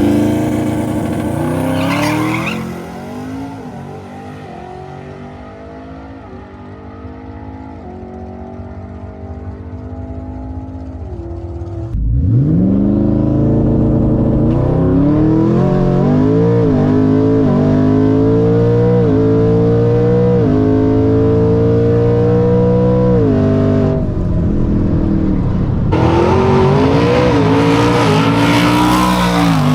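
Twin-turbocharged 2018 Ford F150 making a hard acceleration run down a drag strip. Engine pitch climbs and drops back at each upshift. The run comes in suddenly loud about halfway through, after a quieter stretch of rising engine sound, and a rushing noise joins near the end.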